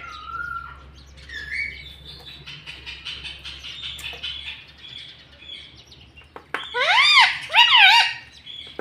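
Pet parrot making soft chirps and twitters, then two loud arched calls in quick succession about two-thirds of the way in.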